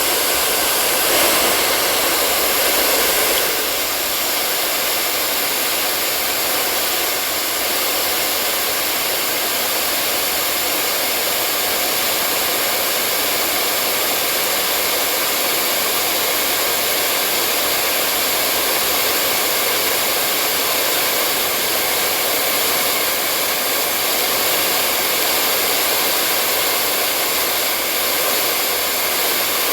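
Hair dryer running steadily: a continuous blowing rush with faint steady tones in it, easing slightly a few seconds in.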